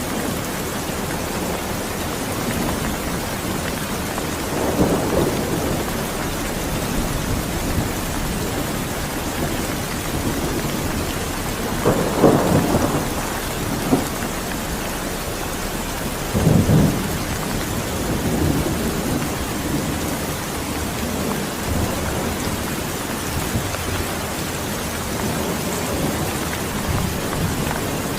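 Steady rain falling, with thunder rumbling three times, the loudest rumble about twelve seconds in.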